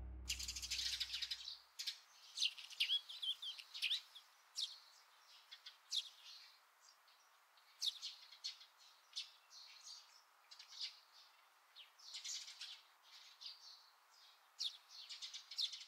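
Small birds chirping: many short, high calls, some sliding in pitch, scattered irregularly over a faint steady hiss.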